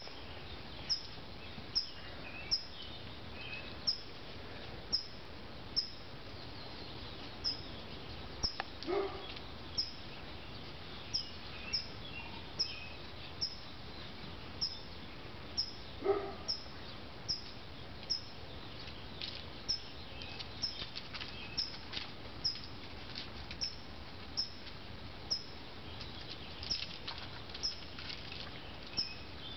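A bird chirping over and over, one short high chirp about once a second, over steady outdoor background noise. Twice a dog gives a short bark, once about a third of the way in and again just past the middle.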